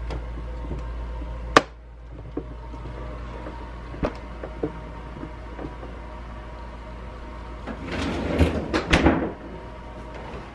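Refrigerator freezer door shut with a sharp thump about a second and a half in, cutting off a low hum. Then a few light knocks and, near the end, a burst of handling clatter and rustle.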